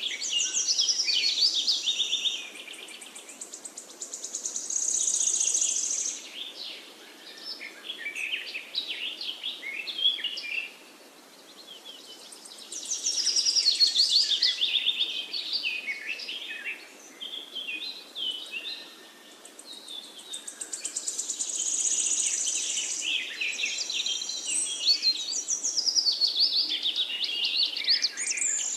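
Songbirds chirping and trilling in a busy chorus of high, rapid notes. The song swells and fades in waves a few seconds long.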